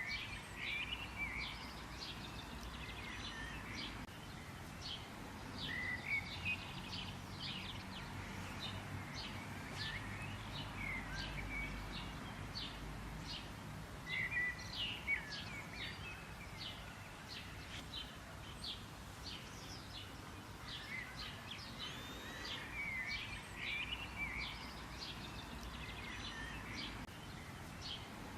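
Wild songbirds chirping, with quick runs of short high notes and trilled phrases that keep coming back every few seconds, over a faint low background rumble.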